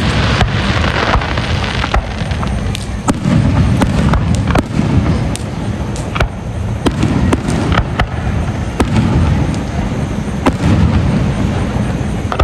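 Fireworks display: a quick string of sharp cracks and pops over deep booms, with a dense crackling burst in the first couple of seconds.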